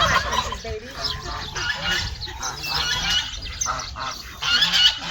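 Domestic geese honking and ducks calling, a run of short overlapping calls that gets louder near the end.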